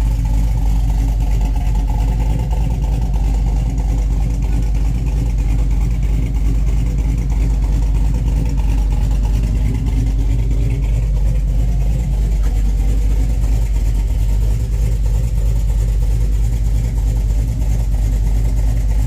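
Chevrolet 5.3-litre V8 with a Brian Tooley Racing Truck Norris camshaft, idling steadily.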